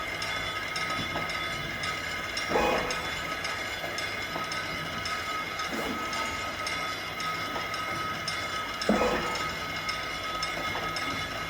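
Automatic onde-onde/nastar forming machine running: a steady motor whine over continuous mechanical clatter, with a louder knock about every three seconds as it cycles.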